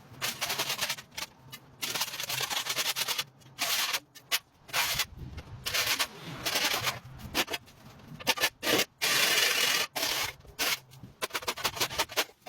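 Repeated scraping strokes on a concrete driveway as overgrown grass and weeds are cleared, in irregular bursts that start and stop abruptly, over a faint low steady hum.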